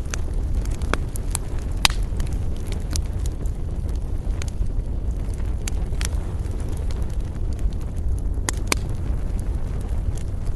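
Wood fire in a fireplace crackling: scattered sharp pops and snaps, the strongest about two seconds in and near the end, over a steady low rumble.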